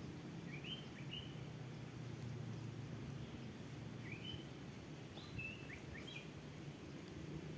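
A small bird chirping: short rising notes in three brief groups, over a steady low background hum.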